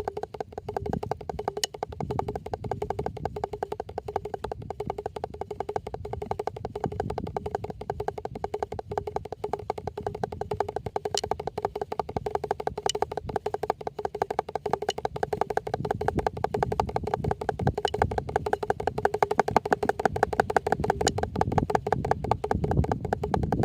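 A drum played with fast, continuous strokes, its pitched ring held steady under the rapid hits and growing a little louder past the middle.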